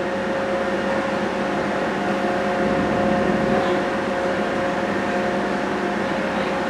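Small passenger ferry boat's engine running steadily under way, heard on board as a constant drone with a steady hum.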